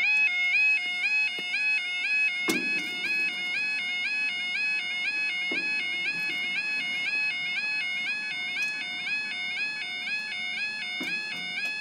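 Level crossing yodel alarm sounding: a loud electronic warble that switches steadily back and forth between a higher and a lower tone, warning that the crossing is closing for a train. A few short knocks sound over it, the strongest about two and a half seconds in.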